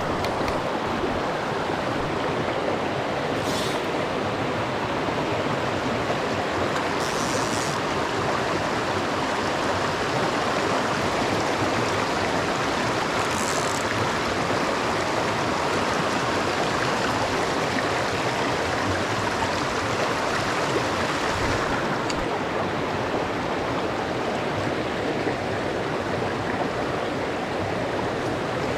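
A small mountain stream running over rocks, a steady rush of water. Three brief higher hisses stand out over it.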